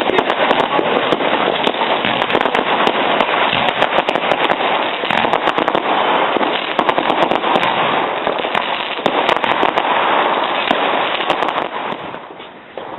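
Fireworks and firecrackers going off in a dense, continuous barrage of overlapping bangs and crackles. The barrage thins out and quietens near the end.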